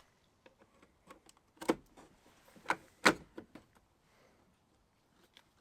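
A pry tool levering the glass off a VW Transporter T5 door mirror: a scatter of small clicks and three louder sharp snaps in the middle as the glass is worked off its mount.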